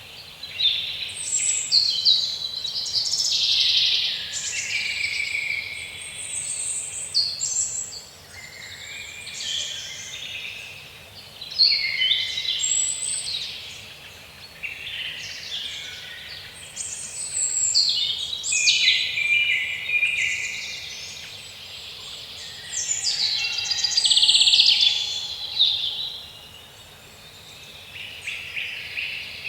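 Songbirds singing and chirping, many quick calls overlapping high in pitch, swelling and fading in waves every few seconds.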